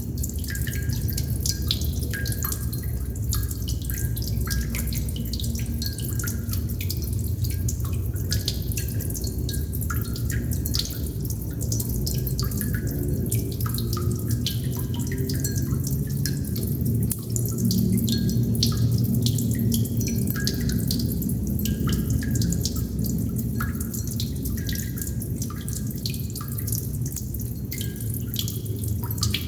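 Water droplets dripping continuously in an irregular patter, each drop a short plinking blip, over a steady low rumble.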